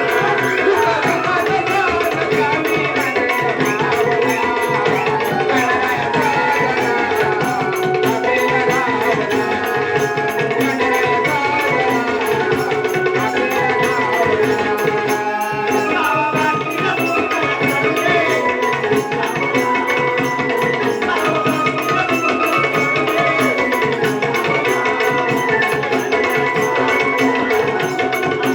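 A gan, the devotional invocation song of Konkan naman folk theatre, sung by a lead voice with hand-drum and percussion accompaniment and steady sustained tones behind it.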